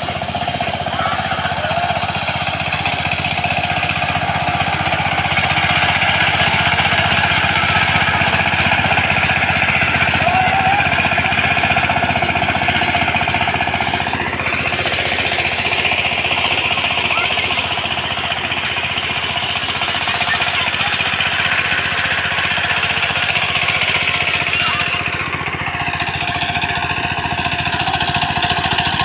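Walk-behind power tiller engine running steadily with a fast, even knocking beat.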